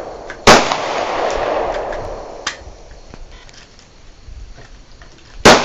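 Two shots from a Beretta pistol, about five seconds apart, each followed by a long echoing tail that dies away over a couple of seconds. A much fainter crack falls between them.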